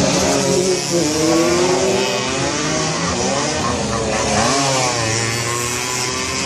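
Several racing motorcycle engines running at once, their pitches rising and falling as the riders throttle up and ease off.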